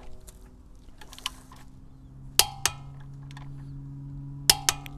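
Metal-on-metal clinks: two pairs of sharp strikes with a short ringing tail, about two seconds apart, over a steady low hum.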